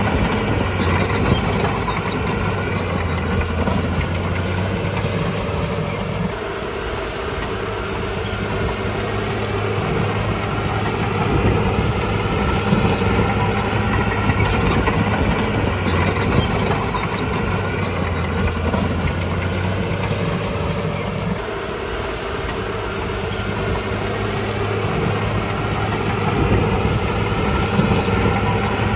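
Bulldozer's diesel engine running steadily, easing off for a few seconds twice and then picking up again as it works.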